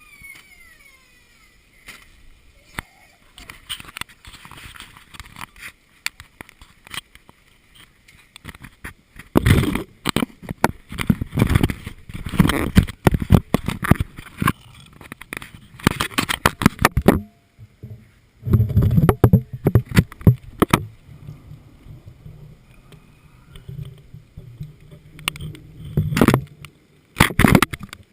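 Thunderstorm: loud, irregular rumbling and crackling bursts, the longest running several seconds from about nine seconds in, with quieter spells between.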